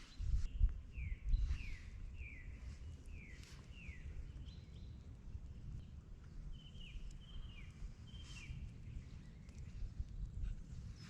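A small bird calling two runs of short falling chirps, about half a second apart, over a steady low rumble.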